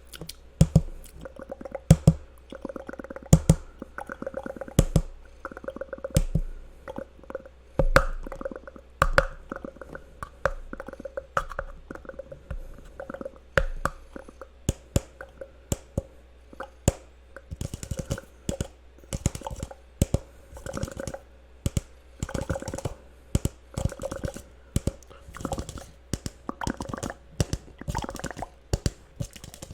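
Layered ASMR mouth sounds and cup tapping: a dense run of quick, irregular clicks and taps, some with a short ring after them.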